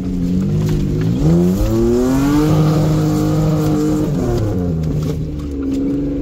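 An off-road 4x4's engine revving up about a second in, held at high revs for a couple of seconds, then easing back down to a steady lower note, as the vehicle is driven hard through a deep crossing where it risks getting stuck.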